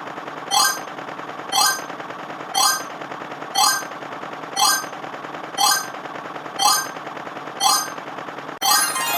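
A short sound effect repeating about once a second over a steady, rattling hiss. Near the end it cuts out and keyboard music begins.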